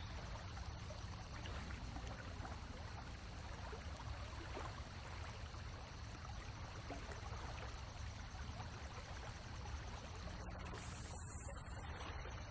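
Faint running water. About eleven seconds in, a much louder steady hiss cuts in suddenly.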